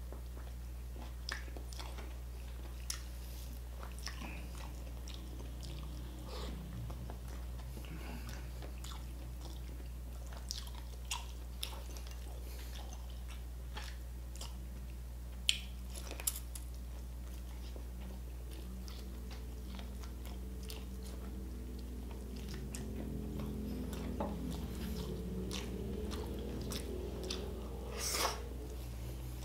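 Close-up chewing and biting of roast pork belly and roast chicken, with wet mouth clicks and scattered crisp crunches; a louder bite and crunch near the end. A steady low hum runs underneath.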